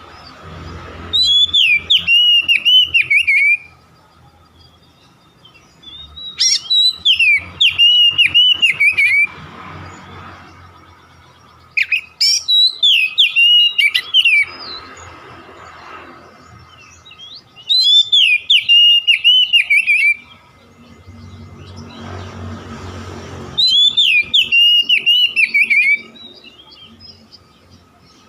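Oriental magpie-robin (kacer) song in five short bouts about every five to six seconds. Each bout is a quick run of loud, repeated whistled notes sliding down and up. It is the kind of song used as a lure call to get kept kacers singing.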